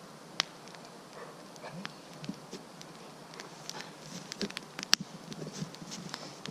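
Wood campfire crackling, with irregular sharp pops and snaps, the loudest about five seconds in. A few short, soft low sounds come underneath.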